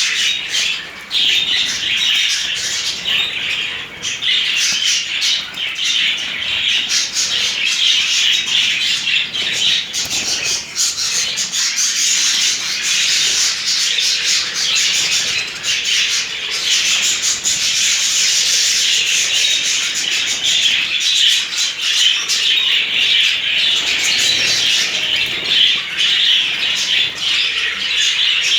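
A flock of budgerigars chattering nonstop, a dense mix of warbles, chirps and squawks, with wings fluttering as they bathe.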